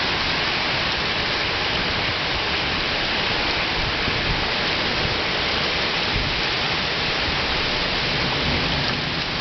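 Heavy thunderstorm downpour: a dense, steady rush of rain.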